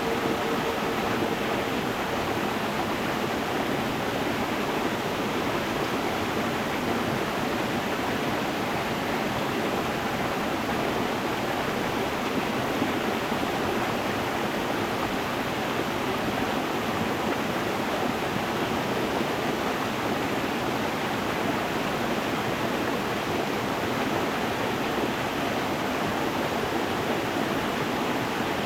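Stream water running over stones, a steady, even rushing with no change in level. A steady tone fades away about two seconds in.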